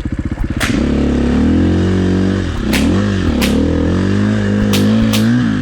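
Dirt bike engine ticking over slowly, then revved up about a second in and held at varying revs, rising and falling with the throttle as the bike works through slushy snow. A few sharp clicks cut through the engine note.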